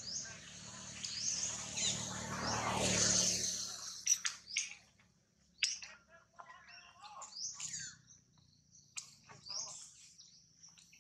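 Birds chirping over and over in short, high calls, some rising in pitch. A louder stretch of rushing noise comes about two seconds in and lasts a second or so, with a few sharp clicks after it.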